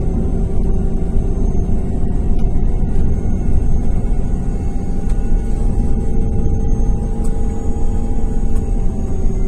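Irisbus Crossway's Iveco Cursor F2B six-cylinder diesel running at a steady speed under way, heard from inside the bus with a deep rumble and a steady drone that hardly changes pitch.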